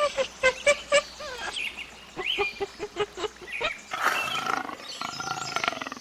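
Animal calls: a quick run of short pitched calls, several a second, then from about four seconds in a rough, drawn-out roar-like call.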